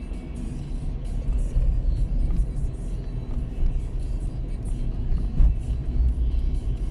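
Car driving on a wet road, heard from inside: a steady low rumble of road and engine noise, with music playing under it.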